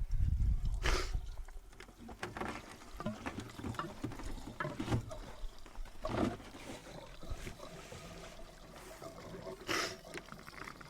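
Scattered clunks, scrapes and rustles of a fuel can and its hose being handled, with a low buffet on the microphone at the start.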